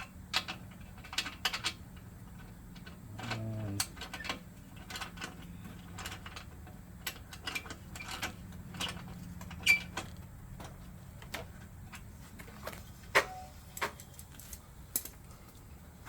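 Light, irregular clicks and ticks from handling the e-bike's front wheel and brake, over a low steady hum that fades out about ten seconds in.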